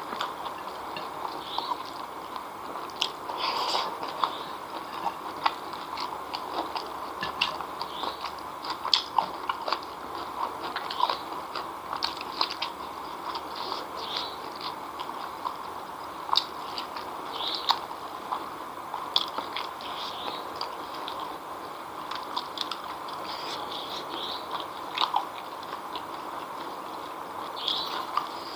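Close-miked chewing of spicy chicken feet eaten by hand: wet mouth sounds with many small, irregular clicks and crunches throughout.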